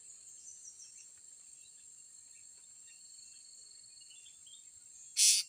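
Steady high-pitched shrilling of insects in the background, with a few faint chirps. Near the end, two short harsh hissing bursts, the loudest sounds here, come about half a second apart.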